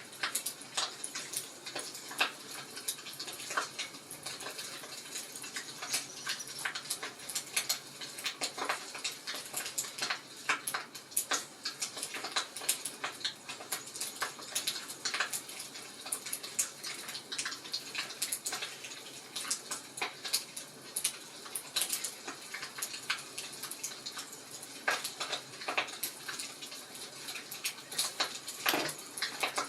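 Wood fire crackling in a fireplace: a soft hiss with irregular sharp pops and snaps, a louder pop near the end.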